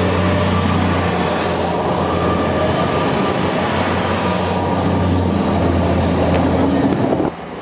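Train passing at close range: steady loud rolling noise over a low engine hum, with a thin high whine on top. It cuts off abruptly about seven seconds in.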